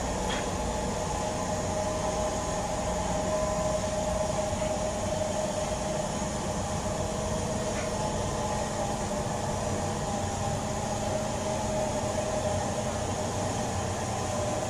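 HO-scale model diesel locomotives pulling a long freight train: a steady motor hum and wheel rumble on the track, with a couple of faint clicks.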